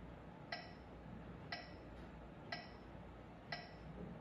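Metronome ticking steadily at about one tick a second (60 beats per minute).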